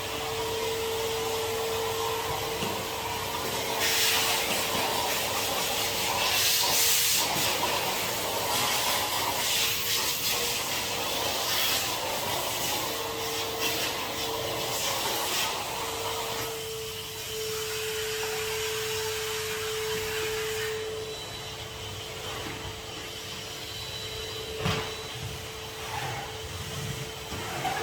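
Henry HVR200 620 W canister vacuum cleaner running, its motor a steady whine over rushing air. Stretches of louder, hissier suction come and go from about four seconds in to about the middle.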